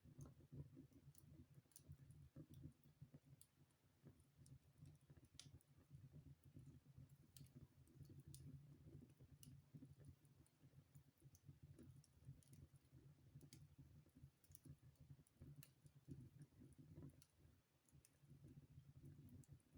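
Wood fire burning in a fireplace: faint, irregular crackles and pops over a quiet, steady low rumble.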